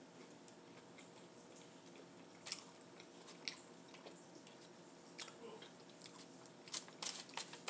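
Close-miked eating sounds: a person chewing food, with scattered short wet mouth clicks and smacks that come more thickly near the end.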